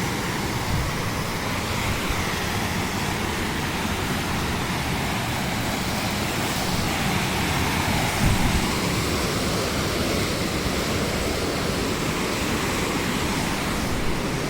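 Waterfall rushing steadily, an even wash of water noise, with a brief thump about eight seconds in.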